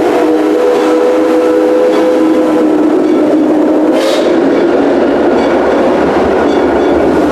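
Train whistle holding a steady chord that dies away about three seconds in, over the loud running noise and wheel clatter of the Six Flags Railroad train; a short hiss about four seconds in.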